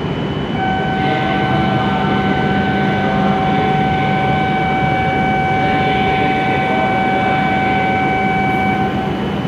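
W7 series Shinkansen train standing at the platform with a steady low hum. Over it a steady high tone with overtones starts about half a second in and stops just before the end.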